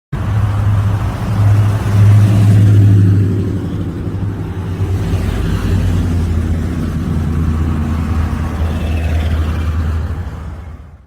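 Car engine running with a deep low rumble. It swells briefly about two seconds in, then settles to a steady idle until it fades out at the end.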